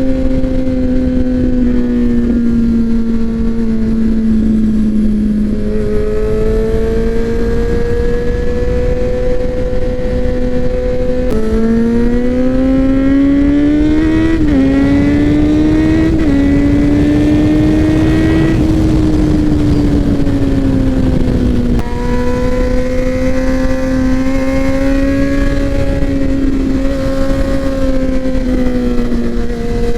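Sport motorcycle engine running hard under load at speed, its pitch holding steady, then climbing through a few quick gear shifts about halfway through before easing back down, over a steady rush of wind.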